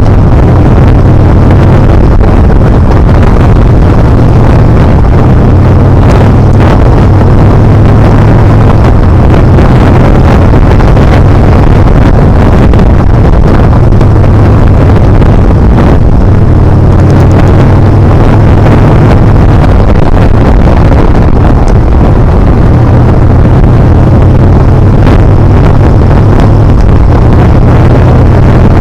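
Yamaha Bolt's air-cooled V-twin engine running steadily under way, its pitch shifting a little now and then, with heavy wind noise blasting the helmet- or bike-mounted action camera's microphone.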